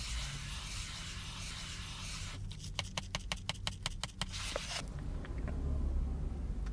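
Food packaging being handled: a dry rustling, then a quick run of small clicks, about six a second, over a low rumble.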